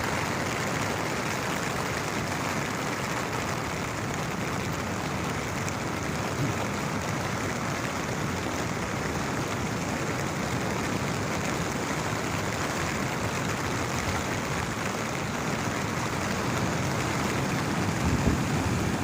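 Steady hiss of falling rain, with a low rumble swelling near the end.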